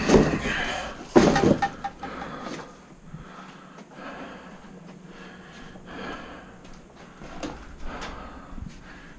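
Clunks and rattles of things being bumped and moved in a cluttered garage, loudest twice in the first two seconds, then quieter scattered clicks and scuffs.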